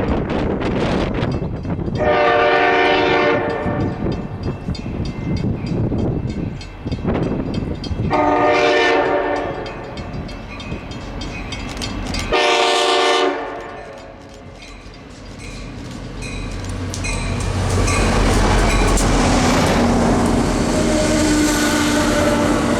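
Locomotive air horn sounding three blasts, the first two longer and the third shorter, over wind buffeting the microphone. In the last few seconds a train's rumble builds steadily as it approaches.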